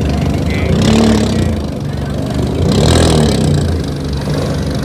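A vehicle engine revving hard through a loud exhaust, blipped up and back down about a second in and again about three seconds in.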